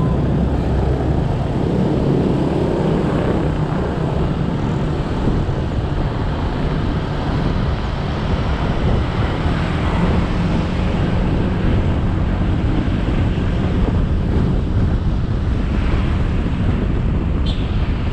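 Motorcycle engine running under way with road noise and wind on the microphone, all steady and unbroken. A brief high squeak comes near the end.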